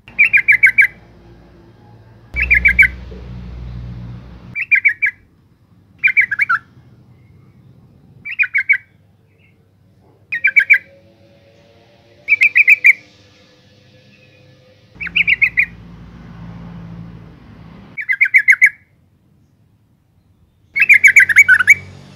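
Yellow-vented bulbul calling, presented as a female calling for a male: short bursts of rapid chattering notes, repeated about every two seconds, around ten times.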